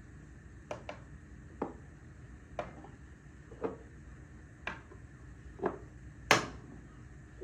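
A series of light, sharp knocks, about one a second, with a louder knock near the end.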